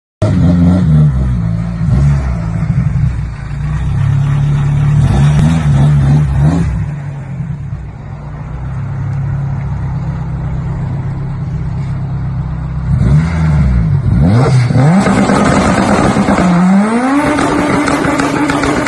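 A Honda Integra's four-cylinder engine is blipped repeatedly in short revs, then settles for a few seconds. About two-thirds of the way through, the revs climb and are held high as the front tyres spin in a burnout, with the hiss of spinning, smoking tyres joining in.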